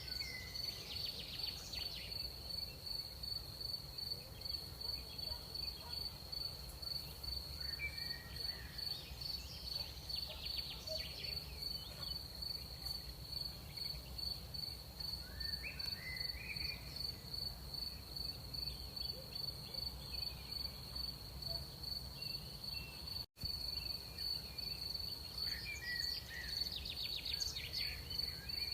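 Crickets trilling steadily in one high, finely pulsing tone, with scattered short chirps from other night insects and a low background rumble. All sound drops out for a split second about two-thirds of the way through.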